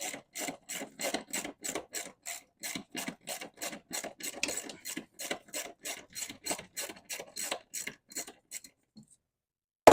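Ratchet wrench worked back and forth in quick, even strokes, about four a second, loosening the last fuel filter mounting bolt. The strokes stop near the end, and a single sharp knock follows.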